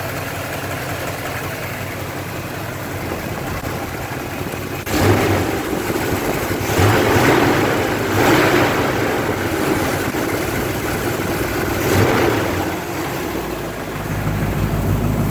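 1974 Chevrolet K10 pickup engine idling, rising in four brief surges about five, seven, eight and twelve seconds in, then settling into a deeper idle near the end.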